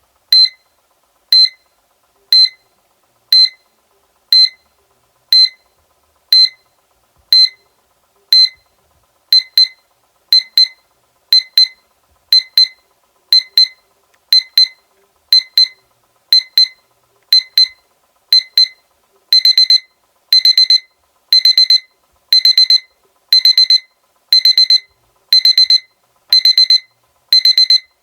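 Seiko electronic alarm clock beeping in a high pitch about once a second. The alarm escalates: single beeps become double beeps about nine seconds in, then longer bursts of rapid beeps about nineteen seconds in.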